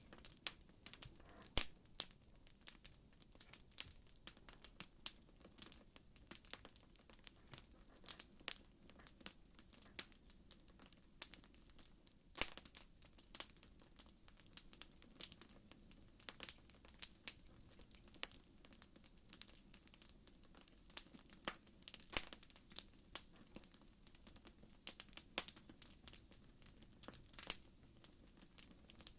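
Campfire crackling: irregular sharp pops and snaps, several a second, over a soft low rumble of the burning fire.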